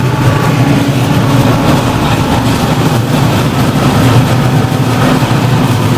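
Electric tram running, a loud steady low hum with a faint steady tone above it.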